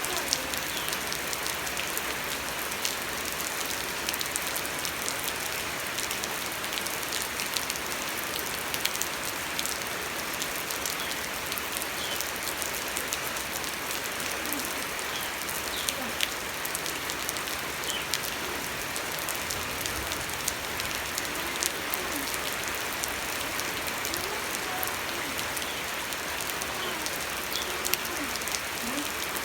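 Steady rain falling, with many separate drops ticking against a surface.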